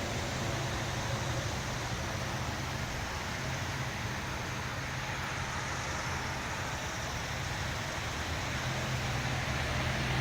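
Steady outdoor background noise: an even hiss over a constant low hum, with no distinct events.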